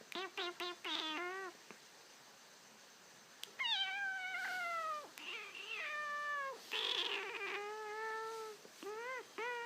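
Cat meowing: a quick run of short meows, a pause of about two seconds, then three long meows that fall in pitch, and short meows again near the end.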